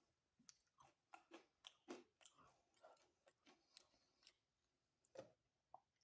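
Faint close-up chewing of pizza, a string of small irregular mouth clicks.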